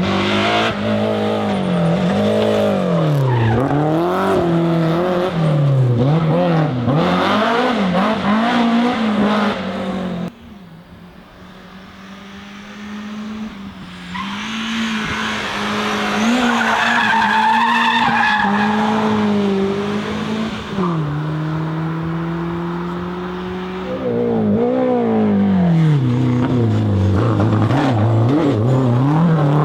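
BMW E30 M3 four-cylinder competition engine at full throttle, its pitch climbing and dropping again and again through gear changes. About a third of the way through, the sound cuts to a quieter stretch that builds into tyre squeal over a steady engine note. Near the end the engine revs up and shifts hard again.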